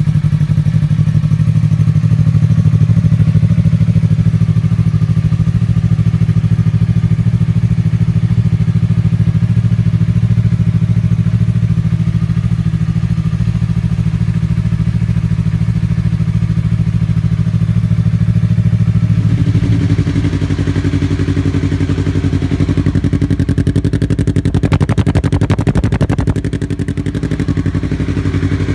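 Yamaha R3 motorcycle's parallel-twin engine idling steadily through its exhaust. About 20 seconds in, the exhaust note changes to a slightly higher, steady tone.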